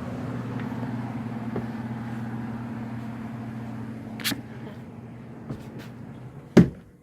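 Indoor air handler of a central air conditioning system humming steadily, a low electrical hum that slowly fades, with a light click about four seconds in and a sharp knock near the end.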